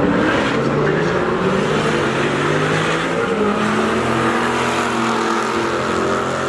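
Drag cars, one a Dodge Challenger, accelerating hard at full throttle. Their engine notes climb in pitch, drop back and climb again as they run through the gears.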